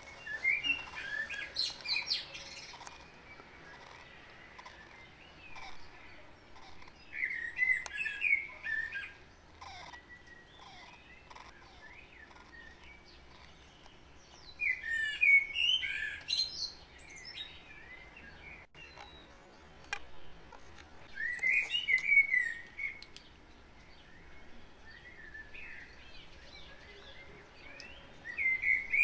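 A songbird singing in short, varied chirping phrases of a couple of seconds each, repeated every six or seven seconds, with quiet between phrases.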